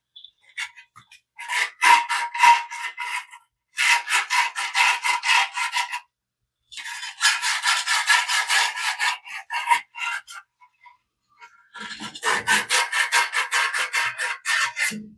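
Emery cloth being rubbed quickly back and forth over a gas water heater's thermocouple rod to scour off corrosion, a rasping scrub in four runs of rapid strokes with short pauses between them.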